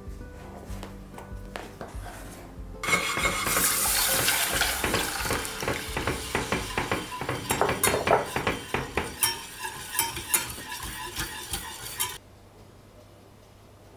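Food sizzling in a hot pan while being stirred, with a utensil clicking and scraping against the pan. The sizzling starts suddenly about three seconds in and cuts off abruptly near the end. Before it there are only light utensil clicks.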